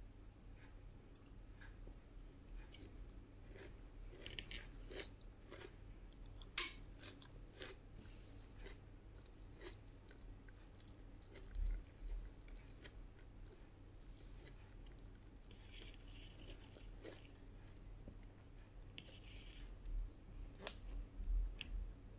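A person chewing a meal of rice, fried egg, fried fish and tomato: wet mouth clicks throughout, with a couple of crunchier bites in the second half.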